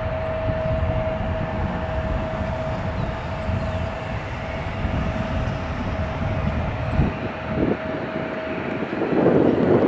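Aircraft engines running: a steady whine over a low rumble. Near the end the whine stops and a louder roar comes in.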